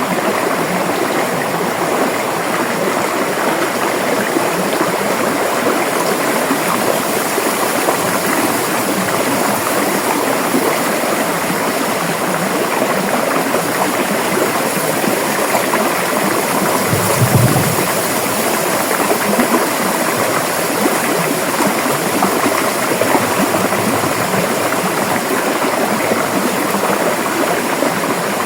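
River water flowing: a steady rush with no break, and a brief low thump about two-thirds of the way through.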